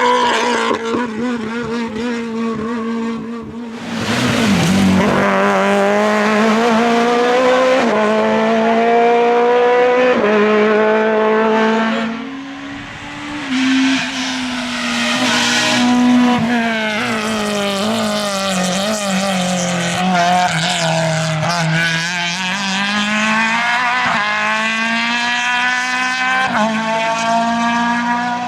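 Group F2000 rally car engine at full throttle, its pitch climbing through the gears and dropping at each change. About twelve seconds in it comes off the throttle and drops down for braking, then pulls hard again. There are brief bursts of tyre noise along the way.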